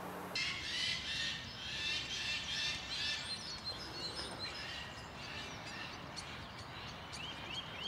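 Several songbirds singing and chirping over a steady outdoor hiss. Near the end one bird repeats a short, rising note several times in quick succession.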